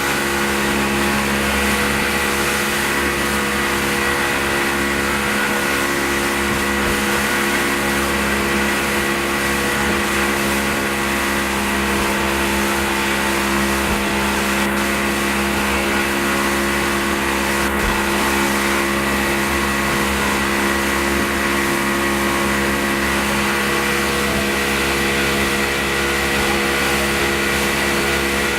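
Motorboat engine running at a steady speed, a continuous drone that holds the same pitch throughout.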